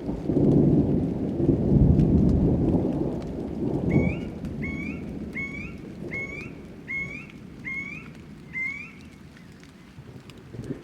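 Thunder rumbling over steady rain, dying away after about four seconds. Then a bird calls seven times, short rising notes about two-thirds of a second apart, over the rain.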